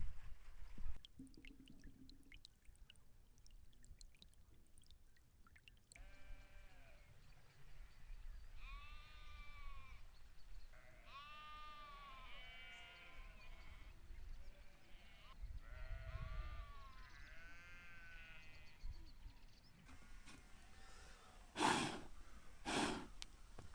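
Sheep bleating over and over, a string of short, arching calls. Near the end come two sharp knocks, louder than the bleats.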